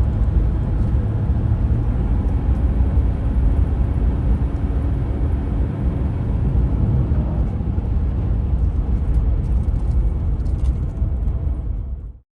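A vehicle driving: a loud, steady low rumble of engine and road noise that cuts off suddenly near the end.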